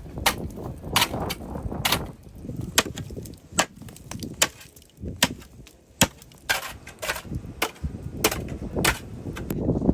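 A series of sharp knocks or strikes, a dozen or more, coming about every half second to a second over a steady low rumble.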